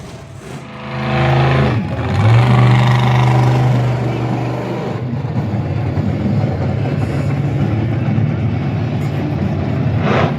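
Monster truck engine revving hard, with a brief dip about two seconds in, then running at steady high revs.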